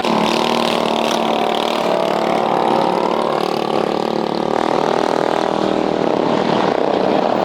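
Mini bike engine running hard and steady, its pitch wavering slightly.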